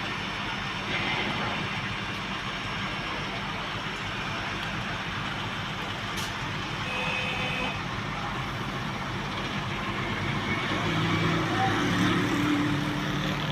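Heavy vehicle engines running steadily with road noise, growing a little louder near the end.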